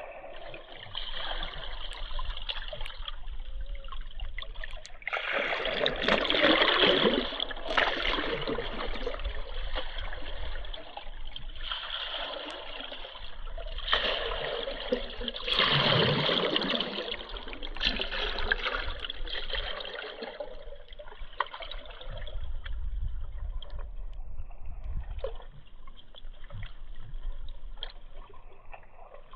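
River water rushing and splashing, swelling louder twice: once about five seconds in and again around the middle.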